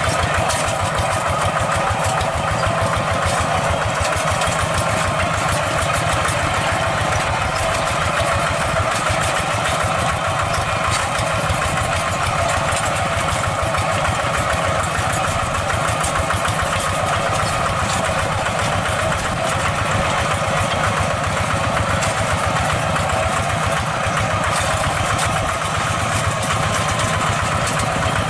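Tractor engine running at a steady, even speed, with no change in pace.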